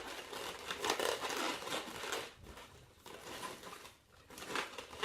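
A latex twisting balloon being handled and twisted into shape, with irregular rubber rubbing and crinkling. The sound eases off in the middle and picks up again near the end.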